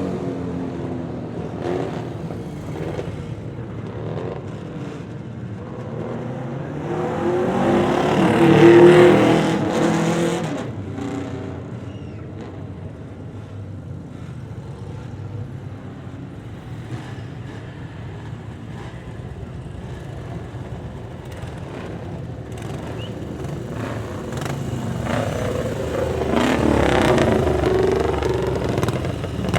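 Vintage motorcycles riding past one after another. One engine passes loud and close about eight to ten seconds in and fades away, engines run more quietly in the middle, and more bikes come up louder near the end.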